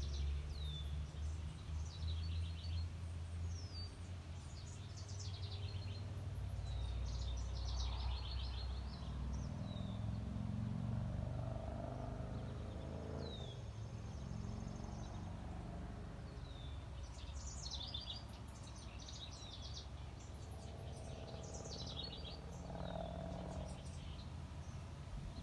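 Songbirds chirping and calling on and off, short falling chirps with busier spells of song midway and near the end, over a low rumble that is heaviest in the first several seconds.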